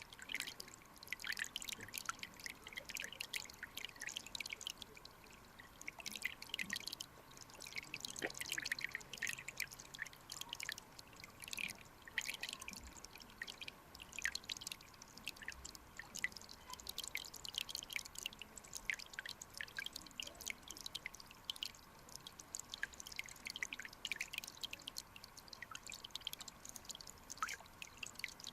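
Mountain stream water trickling and splashing over rocks: a dense, irregular patter of small drips and splashes.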